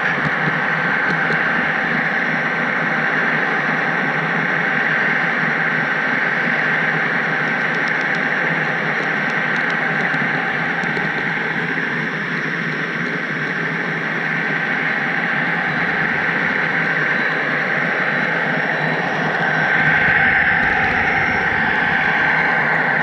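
HO-scale model train rolling along the track: a steady hiss of small wheels on rail with a thin high hum over it, swelling a little near the end.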